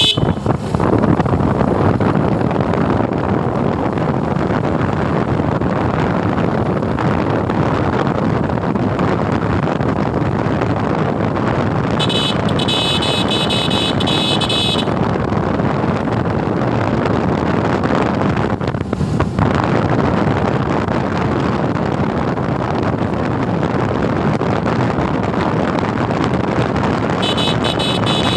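Motorcycle riding noise on a Suzuki Gixxer: a steady rush of wind and road noise on the microphone. A high-pitched horn sounds for about three seconds around the middle, and again near the end.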